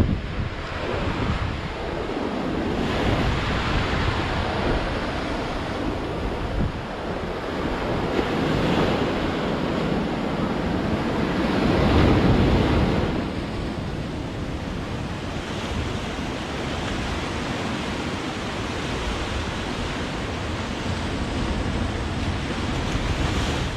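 Sea waves breaking and washing on the shore in slow surges, the biggest about halfway through, over a low rumble of wind on the microphone.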